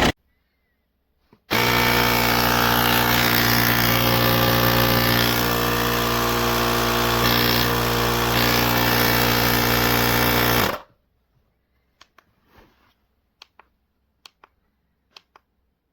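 Small piston air compressor built into a YaberAuto jump starter, running with a steady rattling buzz for about nine seconds, starting and stopping abruptly.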